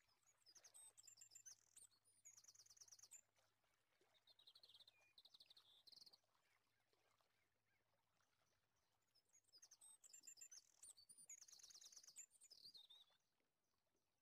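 Very faint bird chirping: quick high trills and chirps in two spells, the second starting about two-thirds of the way in, over near silence.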